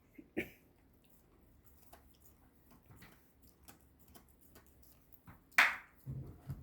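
A puppy gnawing on a dog chew: scattered small clicks and crunches, with one louder sharp sound about five and a half seconds in, followed by a few soft thuds.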